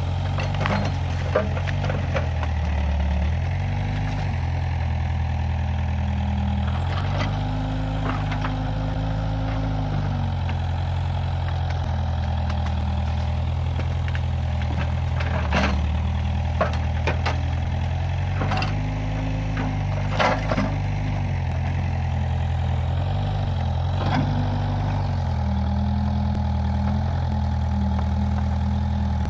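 Case 580G backhoe loader's diesel engine running steadily, its pitch shifting up and down every few seconds as the machine works. Sharp cracks and knocks sound several times over it.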